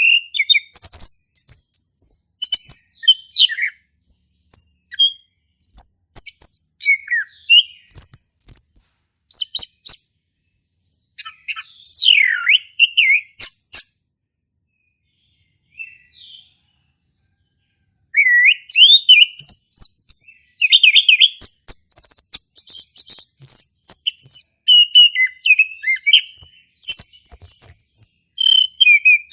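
Male chestnut-capped thrush singing a long, varied song of quick, high notes. It breaks off for about four seconds roughly halfway through, then resumes.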